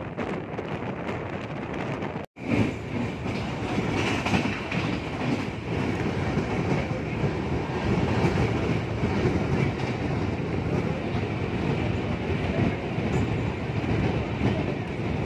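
Express passenger train running on the rails: a steady rumble with wheels clattering over the track. The sound cuts out for an instant about two seconds in.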